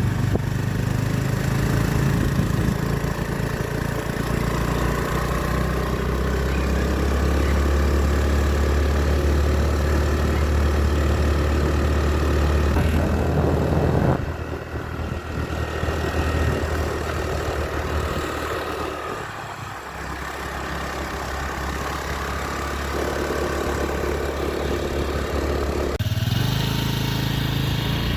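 A vehicle's engine running under way, a steady low hum with road noise. The hum drops suddenly about halfway through and builds back up over the next several seconds.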